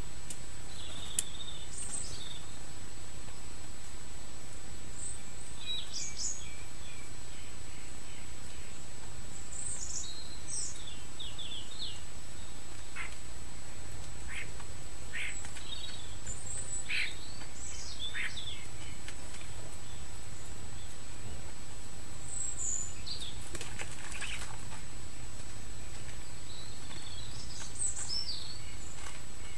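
Small garden birds giving short, scattered chirps and calls over a steady low background noise, with a thin steady high whine underneath.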